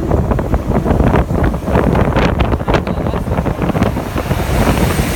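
Heavy wind buffeting the microphone in irregular gusts, over a constant low rumble of vehicle noise.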